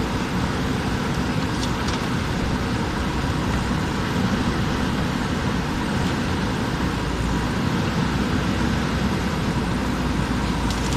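JCB backhoe loader's diesel engine running steadily while it digs, with a couple of faint clicks.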